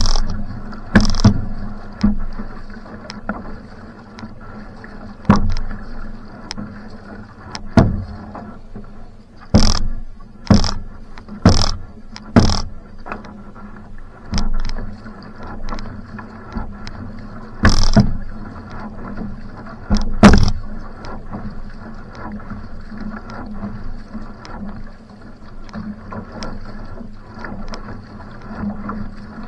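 Va'a outrigger canoe being paddled at hard effort: a steady rush of water and hull noise, broken by sharp knocks and splashes at irregular intervals, about one a second in a run midway through.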